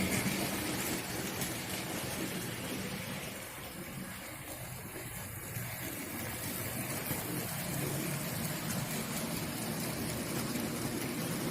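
OO-gauge model freight trains running round the layout: the locomotives' small electric motors hum steadily and the wagons' wheels rattle along the track. The sound drops a little a few seconds in and then comes back up.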